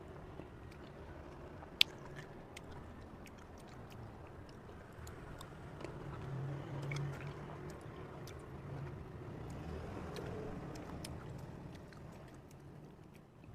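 Someone chewing and biting into fresh cherries, with small scattered mouth clicks and one sharp click about two seconds in, over a steady low rumble.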